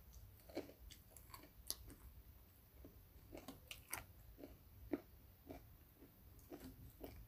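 Faint chewing of a person eating, with scattered small crunching clicks.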